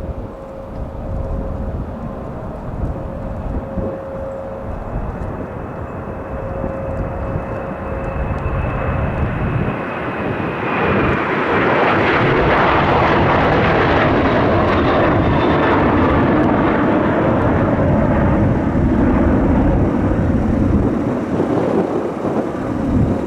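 Jet airliner engines passing close by: a steady engine whine with a high tone at first, then a loud rushing jet noise building from about ten seconds in and holding.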